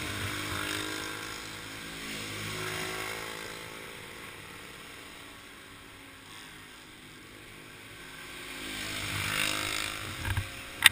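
Junior stock car engines idling, their pitch wavering slightly, with a louder swell of engine noise about nine seconds in. A single sharp knock near the end.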